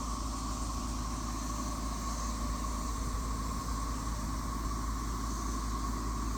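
Dense chorus of periodical cicadas, a steady unbroken drone centred on one high-middle pitch, with a low rumble underneath. It is as loud as it has been so far.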